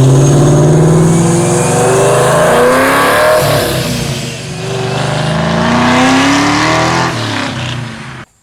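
Exhaust of a 1999–2004 Ford Mustang GT's 4.6-litre two-valve V8 under hard acceleration, the pitch climbing, dropping about four and a half seconds in, then climbing again. It cuts off abruptly near the end.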